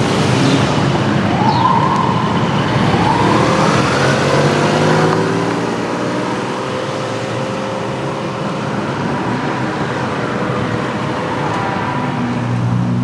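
City street traffic: vehicles driving by, with a pitched sound that rises and falls in the first few seconds.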